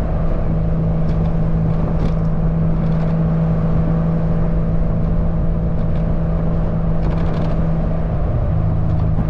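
1997 Porsche 986 Boxster's flat-six running at a steady cruise through an aftermarket cat-back exhaust, heard from the open cockpit with wind noise. A faint rattle from a clip-on camera mount comes and goes, and the engine note shifts slightly lower near the end.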